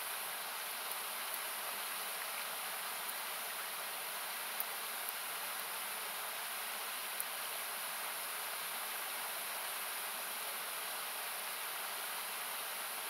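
Steady rushing of a nearby river, its low end cut away by equalizing so it sounds like an even hiss, with a few sharp crackles and pops from a wood campfire, the loudest about four and a half and seven seconds in.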